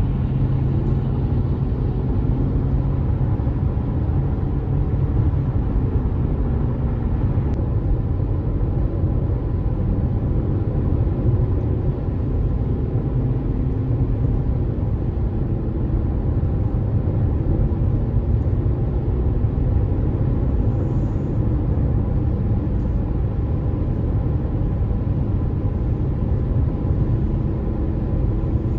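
Steady low road rumble of tyres and engine heard from inside a car cabin while driving, with a faint engine hum that drifts slowly in pitch.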